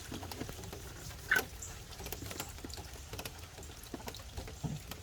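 Rain patters steadily with scattered drips. About a second in, a hen gives one short, sneeze-like call, which is simply how she sounds and not a sign of a cold.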